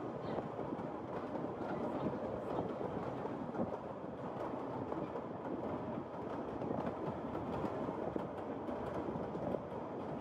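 Kurobe Gorge Railway's narrow-gauge train running, heard from a passenger car: a steady rumble of wheels on track with light clatter.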